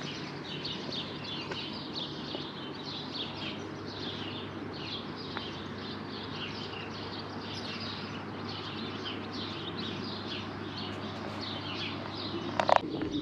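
Many songbirds chirping and singing at once, a dense run of short calls throughout, with one short sharp knock near the end.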